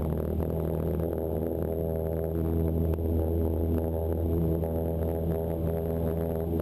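Cessna 172's piston engine and propeller running steadily at high power in the cockpit, an even drone that does not rise or fall.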